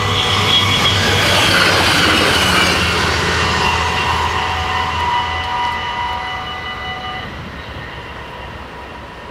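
A diesel multiple unit train running past the level crossing, loudest in the first few seconds and then fading as it moves away, its engine hum dying out about halfway through. The crossing's warning bells ring steadily and stop abruptly about seven seconds in, as the barriers start to lift.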